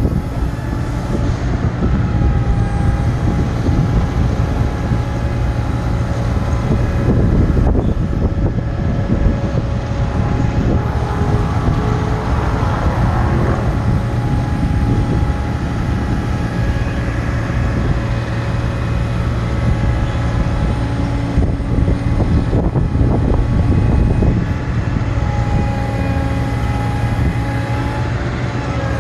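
Truck engine running steadily to drive the hydraulics of an Altec AA55 aerial bucket boom, a low constant hum under a steady whine of several tones. The whine shifts in pitch around the middle and again near the end as the boom's hydraulics change load.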